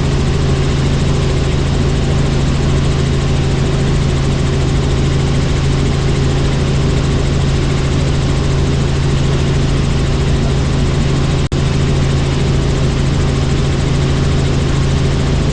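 Helicopter in flight: steady drone of the rotor and turbine engine with a strong low hum. The sound cuts out for an instant about eleven and a half seconds in.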